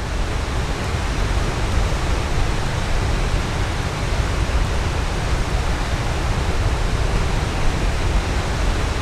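Waterfall rushing in a steady, even roar with a deep low rumble.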